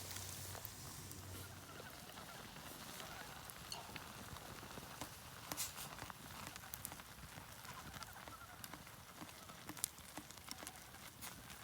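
Faint, sporadic crackles and pops of a wood campfire over a low outdoor background hiss.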